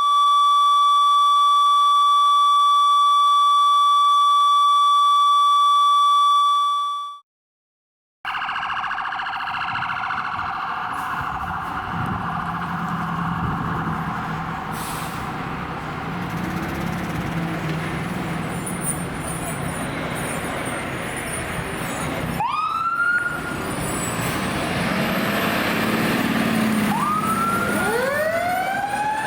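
A steady electronic tone for about seven seconds cuts off into a second of silence. Street noise with a running engine follows. Fire engine sirens then start winding up, rising in pitch again and again over the last several seconds.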